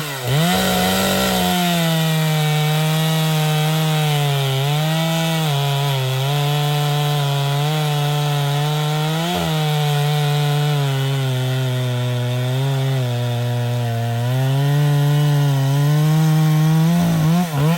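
Echo CS-6700 two-stroke chainsaw at full throttle cutting through wood. It revs up at the start, holds high with small dips in pitch as the chain bites, and drops back toward idle at the end.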